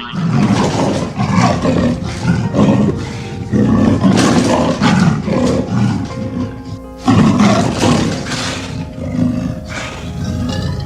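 A large animal roaring over and over in loud, harsh calls, with a short pause about seven seconds in.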